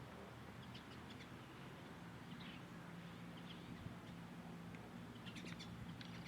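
Small birds chirping faintly in short, scattered notes, with a quick cluster of chirps near the end, over a steady low hum.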